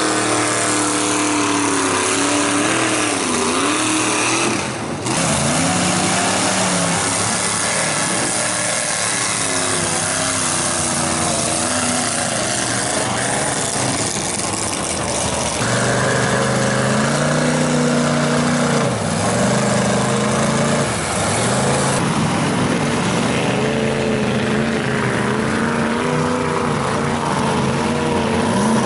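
Lifted mud trucks' engines revving hard as the trucks spin their wheels through a mud bog, pitch climbing and dropping with the throttle over a steady rush of spinning tyres and flung mud. The sound changes abruptly several times, about 5, 15 and 22 seconds in, as one truck's run gives way to another's.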